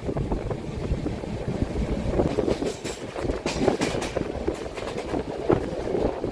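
Indian Railways passenger train running along the line, heard from a coach window: a steady running noise from the wheels and coach, with irregular clicks and knocks as the wheels pass over the rails.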